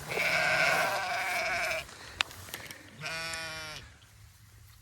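Sheep bleating twice: a long, higher bleat lasting nearly two seconds, then a shorter, lower bleat about three seconds in, with a single sharp click between them.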